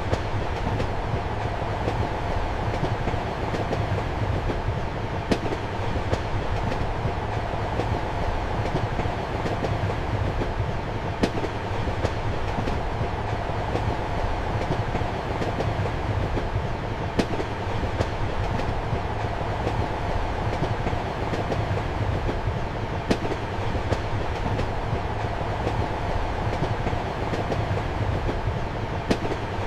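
A passenger train carriage running at steady speed, heard from inside the compartment: a continuous low rumble and hum, with sharp wheel clicks over the rail joints. The loudest click comes about every six seconds.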